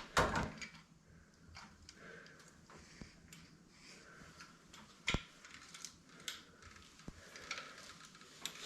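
Scattered light clicks and taps of metal engine parts being handled, with one sharper knock about five seconds in.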